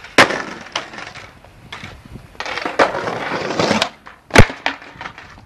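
Skateboard wheels rolling over the ground, with sharp clacks of the board striking down: one just after the start and the loudest about four seconds in, followed by a few lighter knocks.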